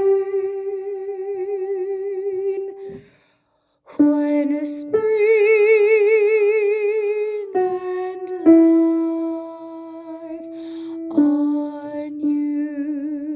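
A woman singing an alto line alone, holding long, slow notes with a wavering vibrato. There is a short break about three seconds in before the held notes resume.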